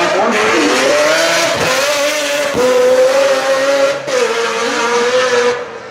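Tuned car engine pulling hard at full throttle, its pitch climbing and then dropping sharply at gear changes about one and a half and two and a half seconds in, then holding high and easing down near the end.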